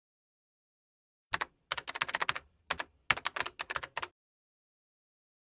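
Computer keyboard typing: quick runs of sharp keystroke clicks for about three seconds, starting about a second in.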